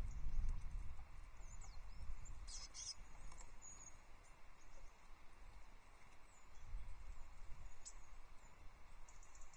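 Small songbirds, tits, giving thin high chirps and short call notes, scattered and irregular, with a brief flurry of notes about two and a half seconds in and a sharp click near the end. A low wind rumble on the microphone sits underneath, strongest at the start.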